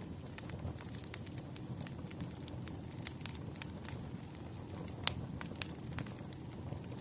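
Wood fire crackling: a low steady rustle of burning logs with scattered sharp pops and snaps, the loudest about five seconds in.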